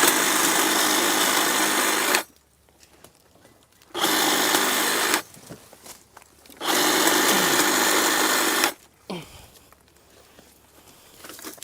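Electric power saw cutting brush, run in three bursts: about two seconds at the start, a one-second burst around four seconds in, and another two-second run from under seven seconds in, stopping dead between them.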